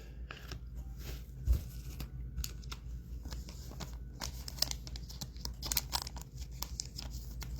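Hands handling trading-card packs and cards: wrapper crinkling and tearing, with many small clicks and rustles as cards are slid and flipped. A soft low thump comes about a second and a half in.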